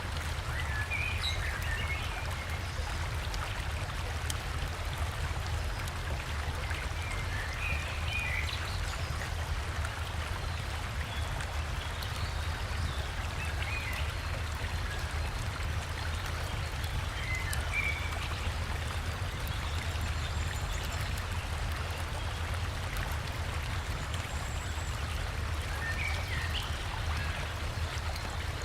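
Steady rush of a forest river over rocks, with a low rumble underneath. Faint short bird chirps come through a handful of times.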